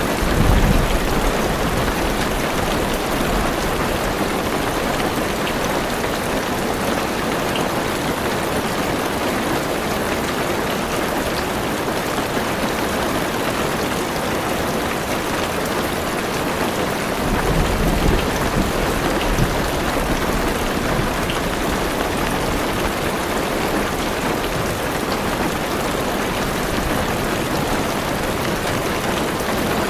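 Heavy rain falling steadily on a car roof and windows, a dense even hiss. A low rumble of thunder comes about a second in, and another longer one rolls through around two-thirds of the way in.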